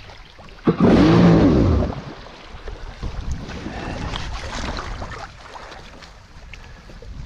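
A jet ski's two-stroke engine revs up sharply and falls back once, about a second in, then settles to wind and water noise with small knocks. The throttle is icing up in the cold.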